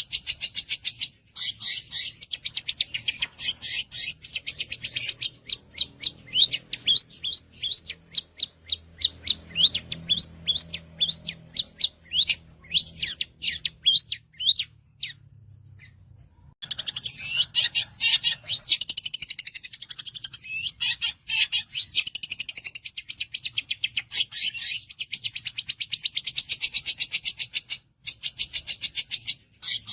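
Long-tailed shrike (cendet) singing a fast, varied song of rapid strings of sharp high notes and trills, with a pause of about two seconds just after the middle before the dense singing resumes.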